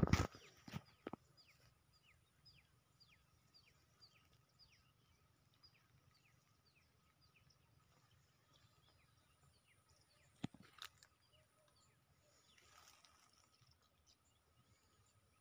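A bird repeating a short, falling call about twice a second for most of the first ten seconds, faint, over a faint steady high tone. Sharp knocks at the very start and again about ten seconds in.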